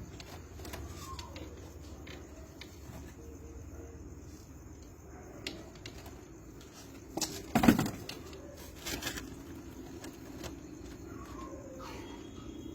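Birds chirping faintly in short calls over a steady low hum, with a few sharp knocks and rustles about seven to nine seconds in.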